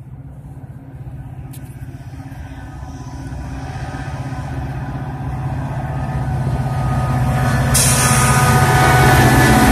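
Metra commuter train's diesel locomotive approaching and pulling into the station, its steady engine drone growing louder throughout. Close to two seconds before the end a loud rushing wheel-and-rail noise sets in suddenly as the locomotive reaches the microphone.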